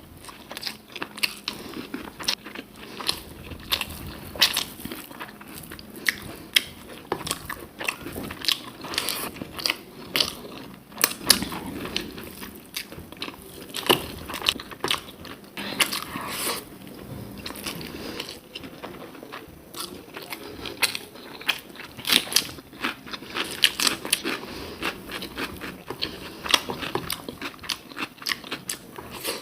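Close-up eating sounds: a person chewing a mouthful of rice and red amaranth greens cooked with peanuts, with many sharp wet mouth clicks and light crunches several times a second.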